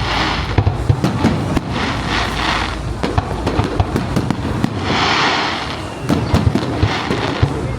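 Fireworks display: many sharp bangs and pops of shells bursting, with a few spells of hiss between them.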